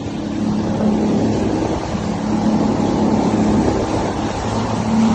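Jet ski engine running at a steady speed under way, its pitch holding nearly level with slight wavers.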